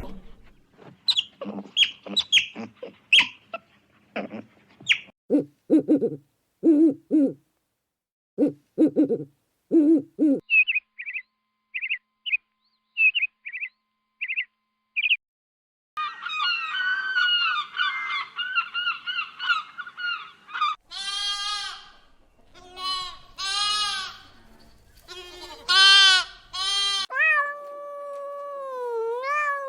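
A string of different animal and bird calls, one clip after another: short high calls, then lower honking calls in pairs, then quick chirps about twice a second, then longer, higher calls. Near the end a long call wavers and slides in pitch.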